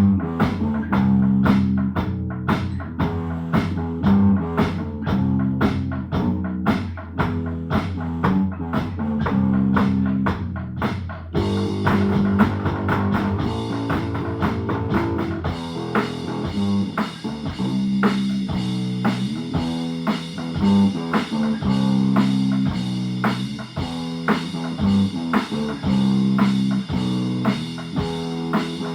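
Amateur band playing live: raspy electric guitar through a knackered amp over a drum kit keeping a steady beat. The playing changes to a denser, brighter part about eleven seconds in.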